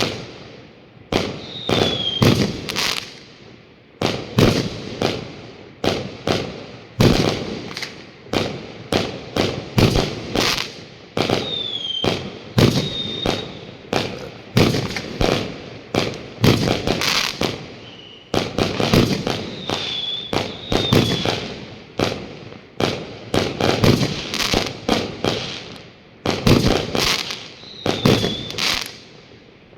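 Fireworks and firecrackers going off all around, one loud bang after another, often several a second, each with an echoing tail. A short high falling whistle cuts through a few times.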